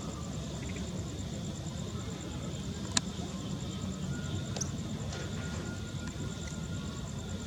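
Outdoor ambience: a steady low rumble under a high, evenly pulsing insect trill, with one sharp click about three seconds in.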